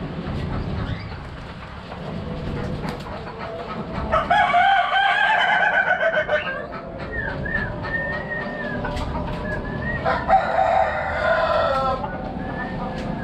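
Birds calling: two long, wavering calls of about two seconds each, about four seconds in and again near the end, with softer chirps between them.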